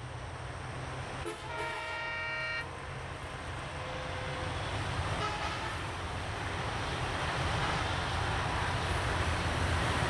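ALCO DL560C diesel locomotive approaching at speed, its rumble growing steadily louder. Its horn sounds one blast of about a second and a half shortly after the start, then a brief, fainter toot a few seconds later.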